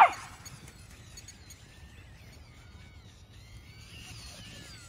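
One short, loud animal call right at the start, then faint bird chirps over a low outdoor background.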